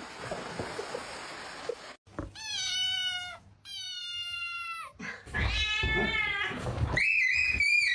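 A domestic cat meowing several times after a couple of seconds of hissy noise: long drawn-out meows, the first falling in pitch, and a higher, steadier call near the end.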